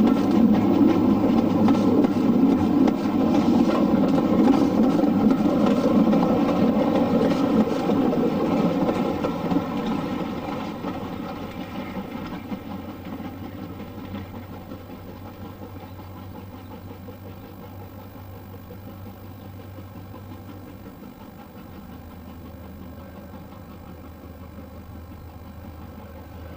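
Train engine running loudly, then fading away over several seconds about ten seconds in, leaving a steady low hum.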